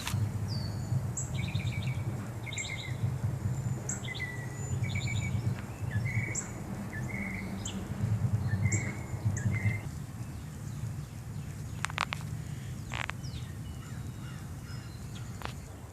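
Small birds chirping and trilling in short repeated calls over a low rumble of wind buffeting the microphone; the wind rumble eases after about ten seconds, and a few sharp clicks follow.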